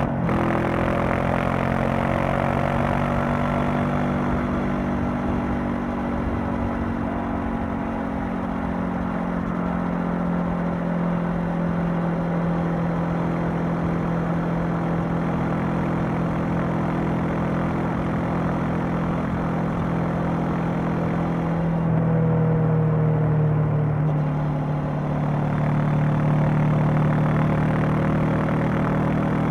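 Honda CB500X's parallel-twin engine and exhaust running under way, the engine note holding steady and drifting slowly in pitch. About two-thirds of the way through the note changes and gets a little louder, then eases and rises again near the end.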